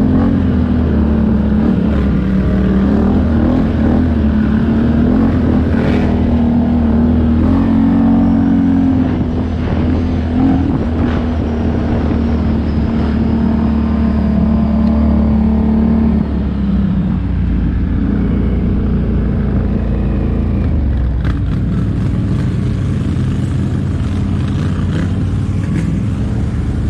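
ATV (quad bike) engine running close by, holding a steady note that shifts slightly, then changes about sixteen seconds in.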